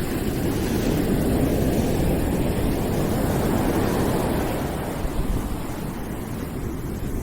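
Continuous rushing white noise, heavy in the low end, swelling over the first few seconds and easing off after about four and a half.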